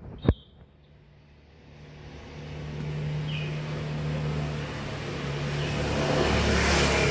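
A motor vehicle approaching and passing, its engine hum and road noise building over several seconds and loudest near the end. A sharp click comes right at the start, and a bird chirps briefly.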